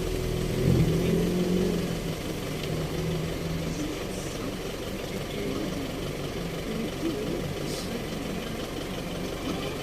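Car engine idling steadily, a low hum that eases down after the first couple of seconds.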